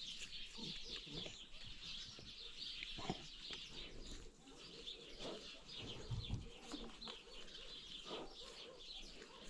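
Small birds chirping continuously in a dense chatter, with a couple of faint knocks.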